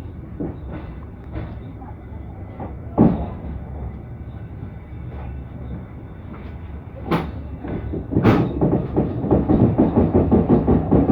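Suburban train running, heard from aboard: a steady low rumble with a few sharp knocks, then a louder, fast, even clatter of wheels over rail joints from about eight seconds in.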